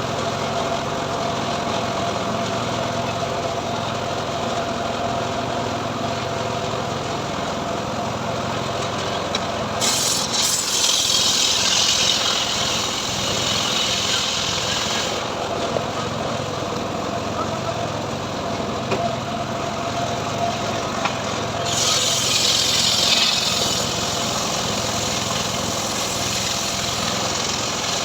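Engine of a home-built sawmill rig running steadily, with two spells of louder, noisier sawing as the blade cuts into teak: one from about ten to fifteen seconds in, a shorter one a few seconds before the end.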